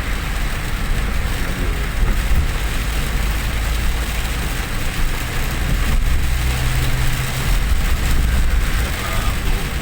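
A vehicle travelling on a road in the rain: a steady low engine and road rumble under an even hiss of rain and wet tyres, with a low hum rising briefly about six seconds in.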